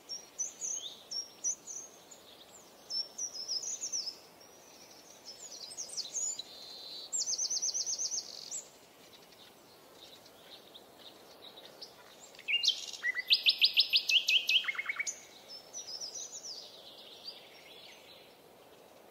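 Songbird singing: a run of high chirps and whistled phrases with two fast trills, the louder one about twelve to fifteen seconds in.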